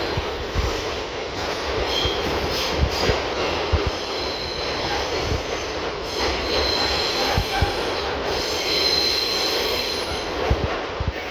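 An R62 subway car running along the track: steady rumbling noise with irregular thumps from the rails. Thin high wheel squeal comes and goes and is strongest from about six to ten seconds in.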